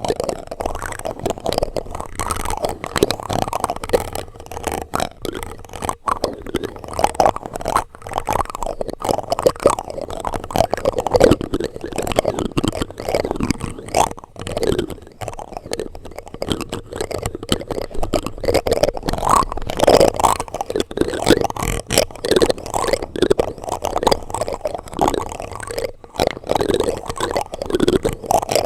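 Plastic utensils rubbed and scraped directly on a microphone: a continuous, dull scraping and rubbing with frequent small knocks and clicks.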